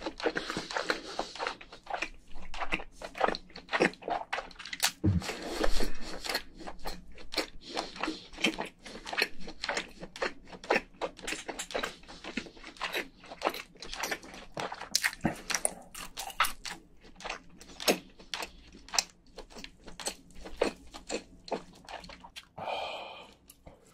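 A person chewing soft cooked crayfish (spiny lobster) meat, with many quick, irregular mouth clicks and smacks.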